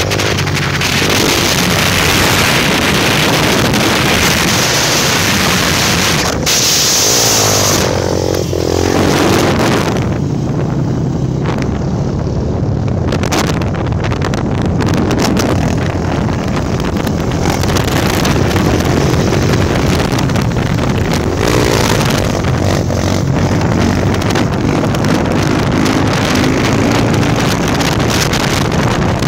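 Honda Tornado single-cylinder motorcycle engine, built out to 299 cc, running steadily at road speed, with heavy wind buffeting on the microphone.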